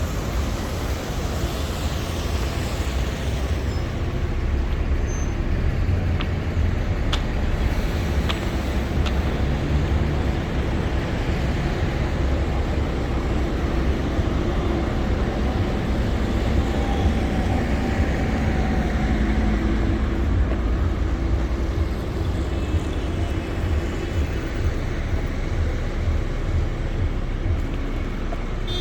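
City street traffic: cars and buses running and passing in a steady low rumble.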